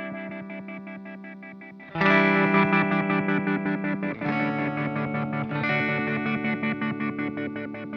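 Electric guitar chords played through an Old Blood Noise Endeavors Sunlight Stereo reverb and delay pedal. The sound is chopped into a fast, even pulse of about eight beats a second by the pedal's modulation. A fading chord gives way to a louder one struck about two seconds in, and the chord changes twice more after that.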